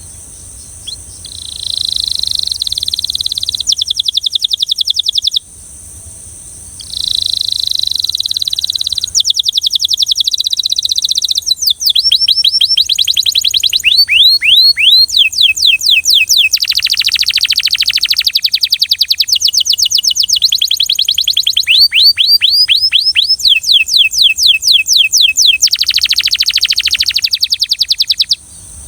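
Domestic canary singing a long song of rolled phrases: runs of rapid repeated notes and quick downward-sweeping trills, with a short break about five seconds in.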